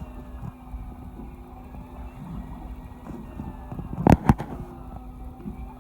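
Fishing boat's engine running with a steady low hum. Two sharp knocks land about four seconds in, a fraction of a second apart.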